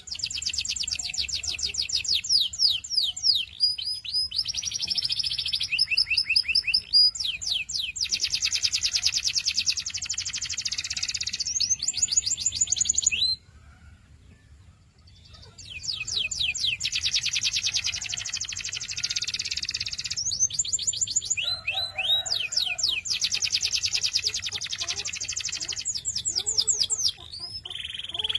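Domestic canary singing long, fast trills and rolls of rapidly repeated high notes. It sings in two long phrases, broken by a pause of about two seconds near the middle.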